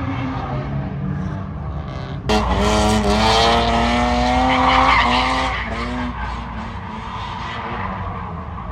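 Drift car's engine running, then suddenly revving hard about two seconds in, its pitch rising, with tires skidding and squealing for about three seconds before the revs drop back.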